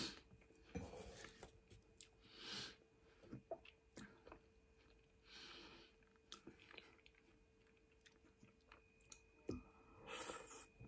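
Faint close-up chewing of a mouthful of cheesy spaghetti, with a few light clicks of a fork against a pan.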